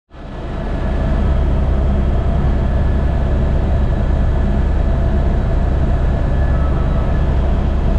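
Airbus H125 helicopter running steadily, a dense low drone from its rotor and single turbine engine, with a few steady tones above it. The sound fades in over the first second.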